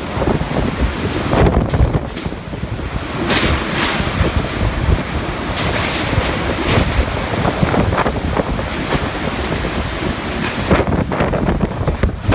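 Typhoon wind gusting hard against the microphone: a loud, continuous rush with heavy buffeting that swells and eases with each gust.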